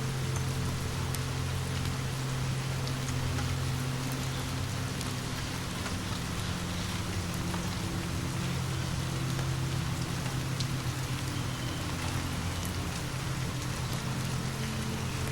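Steady rain falling, an even hiss, over a low sustained drone whose notes shift slowly, with a few faint scattered ticks.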